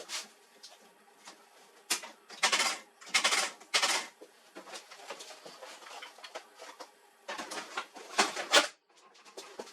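HP LaserJet 4345 laser printer working after its worn fuser drive swing plate assembly was replaced, with a faint running hum. Over it come a series of short, loud rustling and scraping noises: several about two to four seconds in and a cluster near the end.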